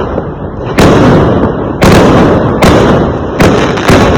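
Fireworks exploding: five loud bangs in quick succession, each followed by a fading echo.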